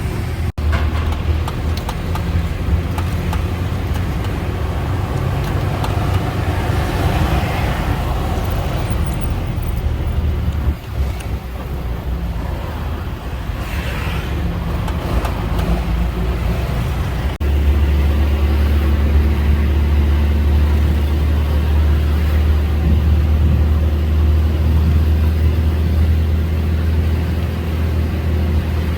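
A motor vehicle's engine running with a steady low drone and road noise. The drone turns louder and steadier about seventeen seconds in.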